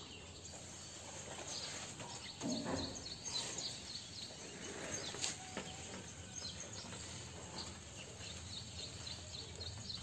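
Faint garden ambience with small birds chirping in short, high, repeated notes, and now and then a soft rustle of plants being brushed.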